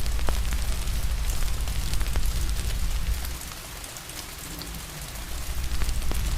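Steady rain hiss mixed with the scattered sharp crackles of a wood fire, over a low rumble that fades out for a couple of seconds in the middle.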